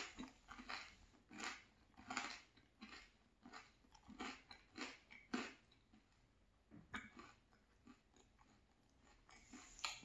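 A person chewing food with the mouth closed, close to the microphone: soft chews a little faster than one a second, thinning out after about five seconds to a couple more near the end.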